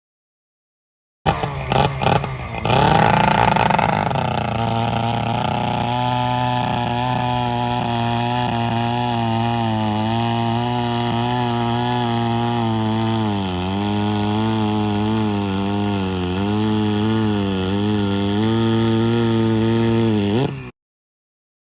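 Vintage two-stroke chainsaw engine sputtering a few times as it catches, revving briefly with a falling pitch, then running steadily at a fast idle whose pitch starts to waver about halfway through. The sound cuts off suddenly near the end.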